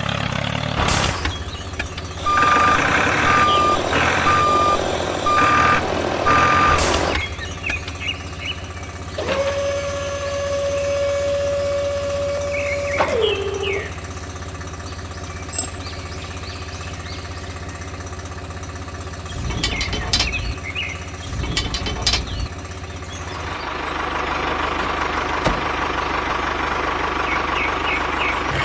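Vehicle reversing alarm beeping about six times at a steady pitch, roughly a beep each 0.8 s, over a steady low engine hum. Later a long steady tone of about four seconds slides down in pitch as it ends, with scattered clicks.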